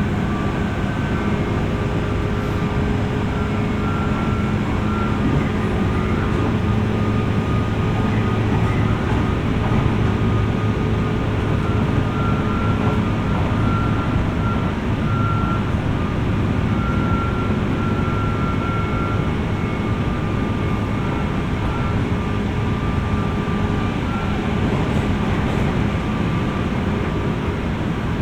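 Running noise inside a JR West 201 series electric train's motor car: a steady rumble of wheels on rails with several steady hum and whine tones from the armature-chopper traction equipment, the higher whine fading in and out.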